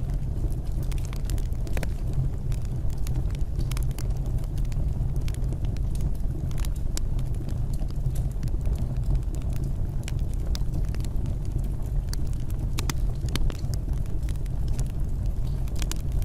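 Fire crackling, with frequent sharp pops and snaps over a steady low rumble.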